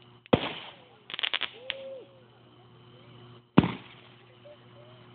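Fireworks going off: a loud bang, a quick run of crackling pops a second later, then a second loud bang about three seconds after the first, each dying away.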